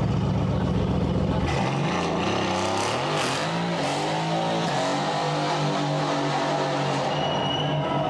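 Mercedes-AMG car engine and exhaust: a deep steady drone, then about a second and a half in the sound changes to the engine revving up and down before holding a steady note.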